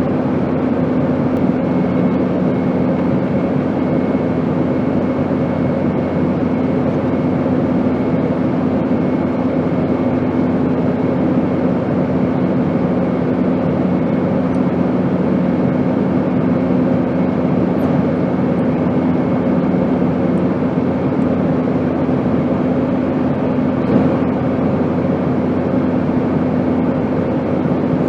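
Steady airplane noise: an even, unbroken rush with a constant low hum and a faint higher whine. A lower hum tone fades out about three quarters of the way through, and there is a single light knock near the end.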